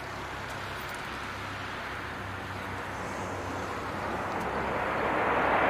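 Jet airliner's JT3D turbofan engines, a steady rushing roar that swells louder over the last couple of seconds.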